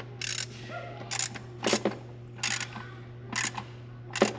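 Hand ratchet clicking in about six short bursts as intake manifold bolts are tightened, each burst a quick back-swing of the handle, the last one the loudest.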